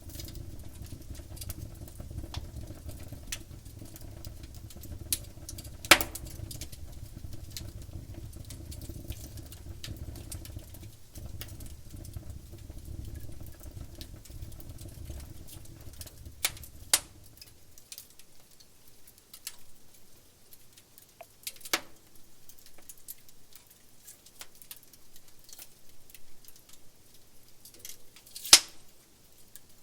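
Wood campfire crackling, with scattered sharp pops from the burning wood, a few of them much louder than the rest. A low rumble underneath falls away about two-thirds of the way through.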